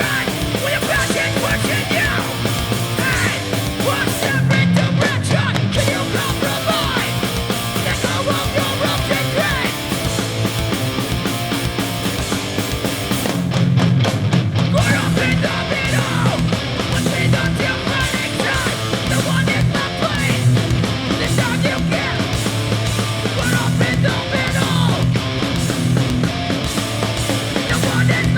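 Live hardcore punk band playing at full volume: distorted electric guitars, bass and pounding drums, with yelled vocals in places. About five seconds in and again about fourteen seconds in, the low end drops out for a moment in a break before the full band comes back in.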